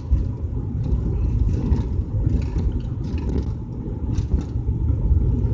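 Steady low road and engine rumble heard from inside a moving car's cabin while driving.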